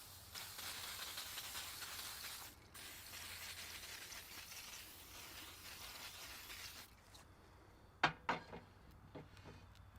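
Hissing and sizzling on a hot Wagner Ware cast iron waffle iron, in two stretches with a brief break a couple of seconds in, cutting off sharply about seven seconds in. A few sharp clicks and knocks follow near the end.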